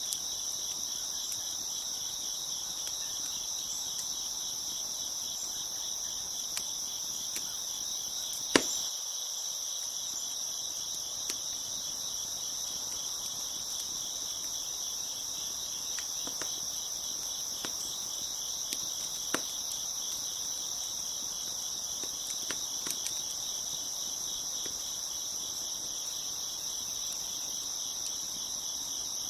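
Crickets chirping steadily in a dense chorus, with scattered sharp pops and crackles of a wood fire; one pop about eight and a half seconds in is louder than the rest.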